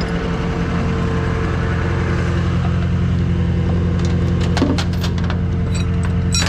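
Tow truck's engine running steadily at idle, with a few short clicks and knocks about four to five seconds in and again near the end.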